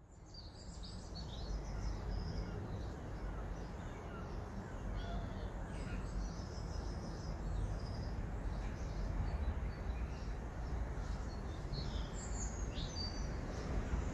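Small garden birds chirping and twittering, many short calls overlapping, over a steady low background rumble.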